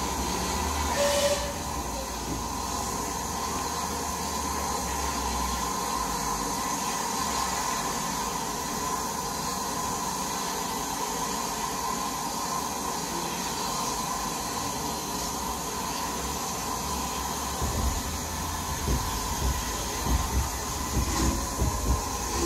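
Heritage railway train running: a steady hiss with a steady mid-pitched hum, a short knock about a second in, and uneven low rumbling in the last few seconds.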